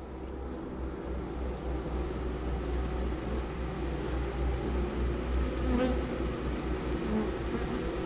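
Honey bees buzzing around a newly hived swarm, with a low fluttering rumble underneath.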